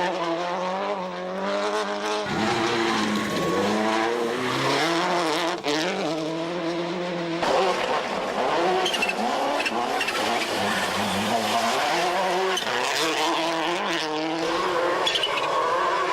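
Subaru Impreza GC8 rally car's flat-four boxer engine driven hard, its pitch climbing and then dropping again and again as it works through the revs and gears.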